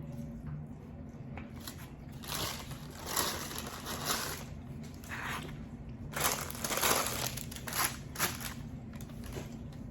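Close-miked eating sounds: crunchy chewing of food in a series of short, irregular bursts.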